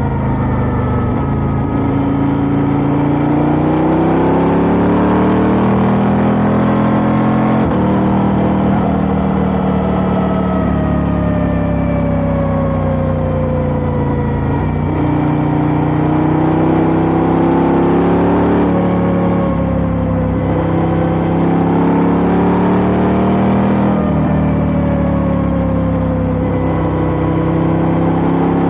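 KTM 890R Duke's parallel-twin engine through an Austin Racing GP1R exhaust while being ridden, the note rising with revs and dropping suddenly at several gear changes, with stretches of steady cruising in between.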